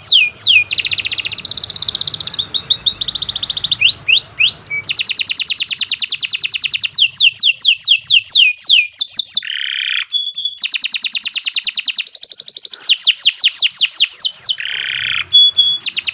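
Domestic canary singing a long, unbroken song: runs of rapid, high, downward-sweeping whistles and fast trills. Lower rasping rolls come about ten seconds in and again near the end.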